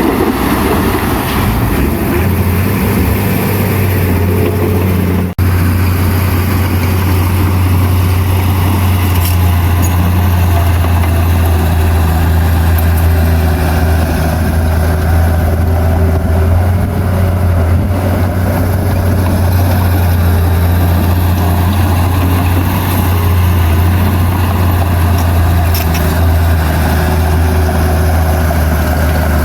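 Diesel engine of heavy earthmoving machinery running steadily with a strong low drone. It cuts out for an instant about five seconds in.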